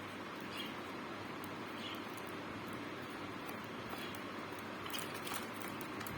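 Small birds giving a few faint, short chirps over a steady background hiss.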